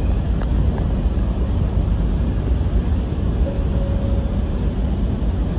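Steady low drone and hiss of the ferry Armorique's engines, with a faint short tone about three and a half seconds in.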